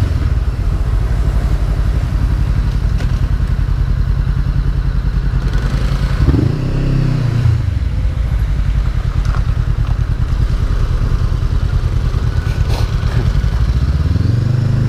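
Honda CB500F parallel-twin engine running under way. Its pitch rises and falls once about six seconds in, and starts rising again near the end.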